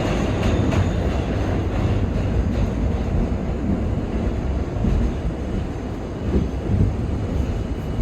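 R32 subway train's steady low rumble and rail noise, easing off a little toward the end.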